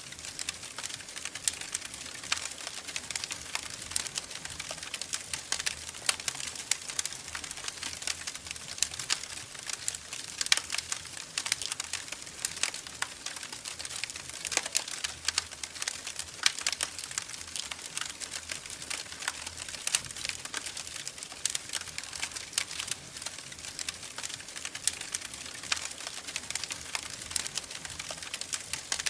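Wood fire crackling in a fireplace: a steady hiss of burning with frequent irregular snaps and pops.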